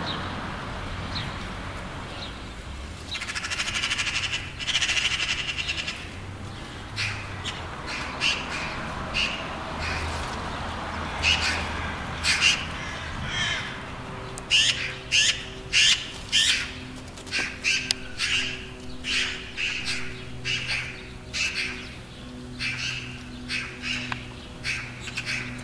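Birds calling with harsh, squawking calls: a chattering run a few seconds in, then many short calls in quick succession through the second half.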